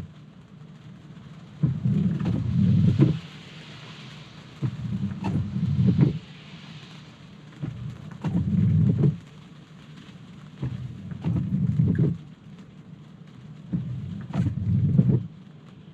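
A Tesla's windshield wipers sweeping across wet glass, one wiper pass about every three seconds, five in all. A steady patter of rain runs between the passes.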